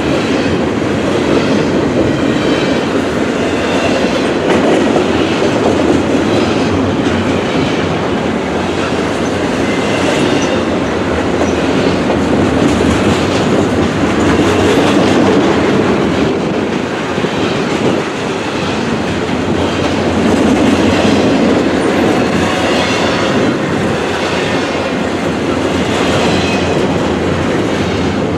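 Double-stack intermodal container train rolling past: a steady rumble of steel wheels on rail with repeated clicks of the wheelsets, swelling and easing a little as the well cars go by.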